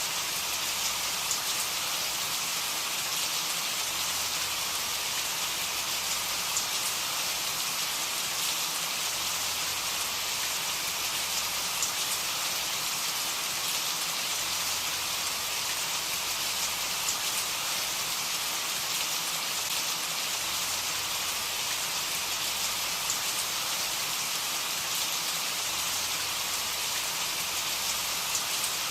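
Steady rainfall, an even hiss of drops on a surface with occasional single drops ticking out.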